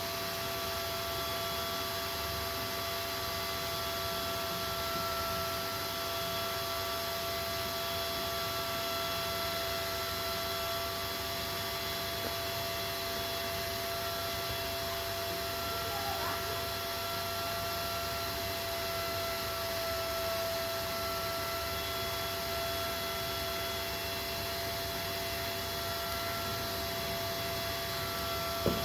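A steady electrical hum and whine: several high, unchanging tones over a constant hiss.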